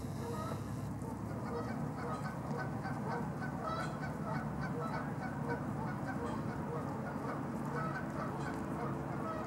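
Canada geese honking: a steady stream of short honks, several a second.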